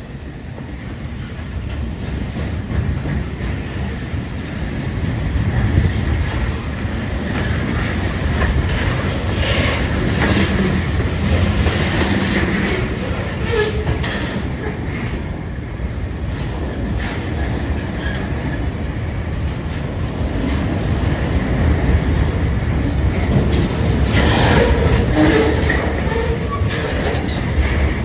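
CPKC mixed freight train rolling past: a steady rumble of freight cars with rhythmic wheel clacks over rail joints and a few brief high wheel squeals. It grows louder over the first few seconds as the train comes close.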